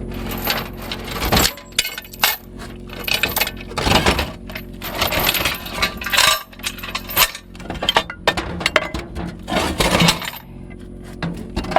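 Metal recovery gear clanking and clinking as it is tossed and shifted into a Jeep's cargo area: a run of irregular sharp knocks and rattles, several at a time.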